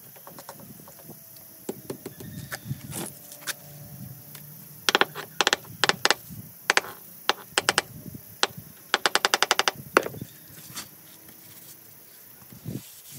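A hammer striking stone in sharp, ringing taps, scattered at first and then in quick clusters, with a fast run of about a dozen blows a little after the middle.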